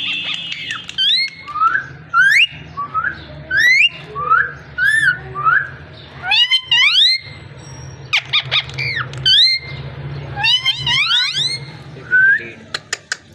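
Pet parrot making a string of short whistles and calls, each sliding up or down in pitch, with brief gaps between them.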